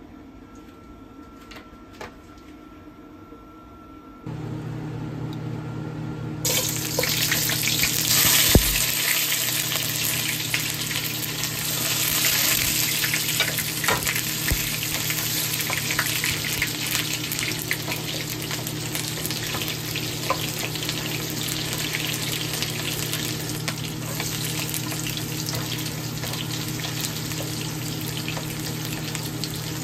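Chopped onion and garlic sizzling in hot oil in a wok, stirred with a wooden spatula. A steady low hum starts about four seconds in and the sizzle a couple of seconds later, with a few knocks of the spatula.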